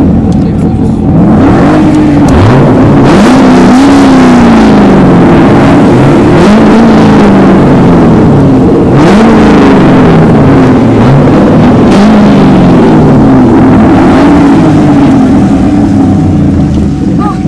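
American muscle car engine being revved repeatedly in neutral, loud, its pitch rising and falling in about six swells roughly two seconds apart.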